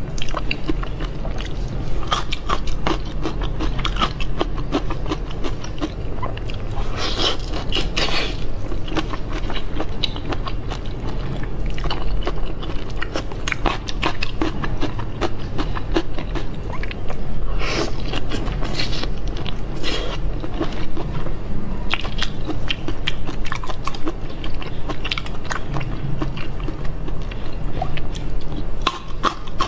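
Close-miked chewing and biting of marinated peeled shrimp: a dense run of small wet clicks and smacks, with a few louder bites.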